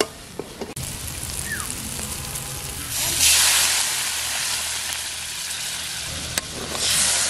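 Spiced masala frying in mustard oil in a metal kadai, stirred with a metal spoon at first. About three seconds in, water poured into the hot pan sets off a loud hissing sizzle that slowly dies down, with a click and a second burst of hissing near the end.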